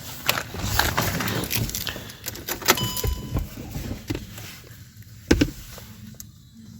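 A run of clicks and rattles of handling, with a short beep-like tone about three seconds in and a sharp knock a little after five seconds.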